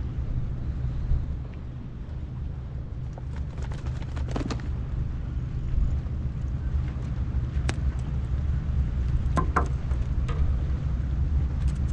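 Steady low engine rumble, with a few sharp clicks and knocks a third of the way in and again near the end.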